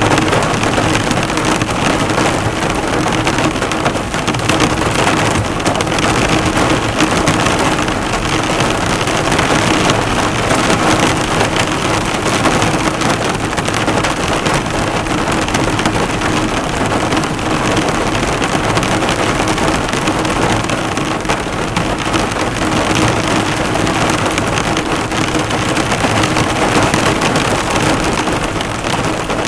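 Heavy rain drumming steadily on a car's bonnet and body, a dense patter of drops with no let-up.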